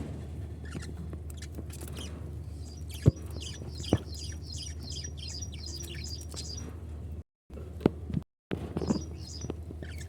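Pet lovebirds chirping: a fast run of short, high chirps about two and a half seconds in that lasts about four seconds, with a few more near the end. Two sharp clicks come about three and four seconds in, over a steady low hum.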